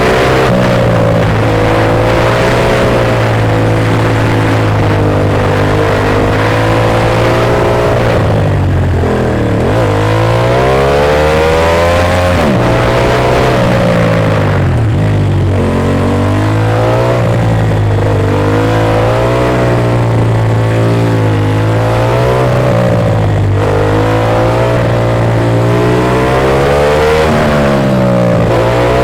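Ducati Monster S2R's air-cooled L-twin engine under way, the revs rising and falling steadily, with several sharp drops and climbs in pitch as it shifts and slows into bends.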